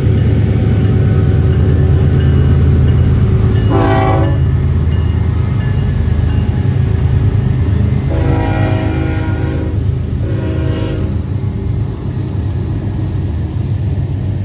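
A string of BNSF diesel locomotives passing close by with a heavy, steady engine rumble, followed by tank cars. A train horn sounds three times over it: a short blast about four seconds in, then a longer blast and a shorter one around eight to eleven seconds.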